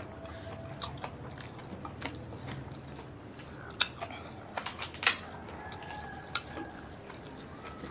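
Close mouth sounds of people eating by hand: chewing and lip smacks, with scattered sharp clicks, the loudest two near the middle.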